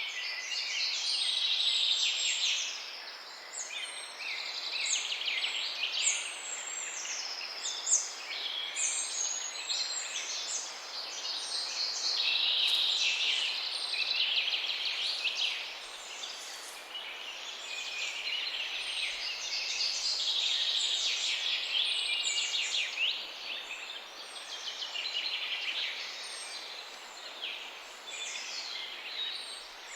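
Many small birds chirping and calling at once, a dense chorus of overlapping high, short calls and quick pitch glides that swells and thins every few seconds over a light steady hiss.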